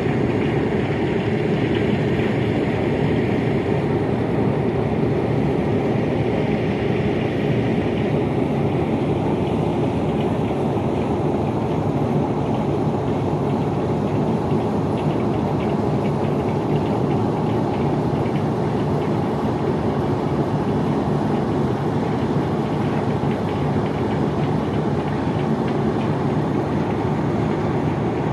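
Engine of a river passenger launch running steadily, a continuous low drone.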